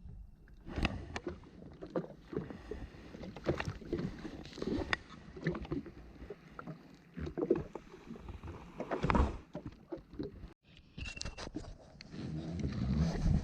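Water splashing and slapping against a jet ski's hull, with irregular knocks and clicks from handling gear on board; the loudest knock comes about nine seconds in.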